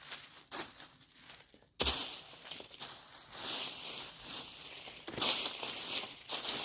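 Footsteps through dry leaf litter on the forest floor, in irregular rustling steps that get louder about two seconds in.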